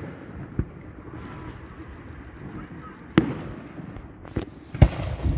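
Fireworks exploding overhead: a small bang about half a second in, a sharp loud one about three seconds in, then several in quick succession near the end, the loudest just before the end.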